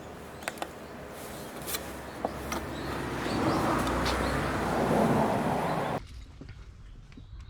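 A road vehicle going by, its noise swelling over a few seconds, with a few light clicks before it; the sound cuts off abruptly about six seconds in.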